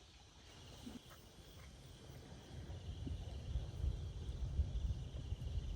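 Steady insect chirring in the background, with a low rumble building from about two seconds in that becomes the loudest sound in the second half.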